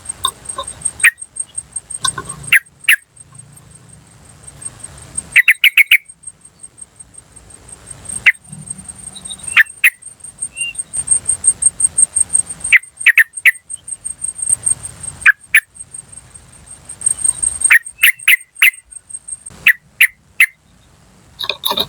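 Sooty-headed bulbul (trucukan) calling: short sharp "cuk" notes in clusters of two to four, repeated every few seconds. Under them runs a steady high pulsing insect trill that stops near the end.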